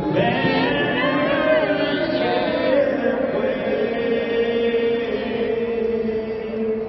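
Music with voices singing: gliding sung lines at first, then one long held note through the second half.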